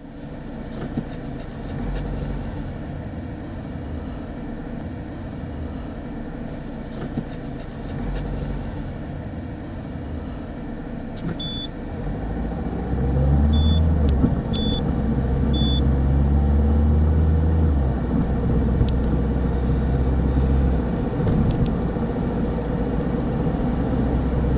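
A car driving, heard as steady road and engine rumble that grows louder about halfway through as it picks up speed. A few short high beeps come in the middle.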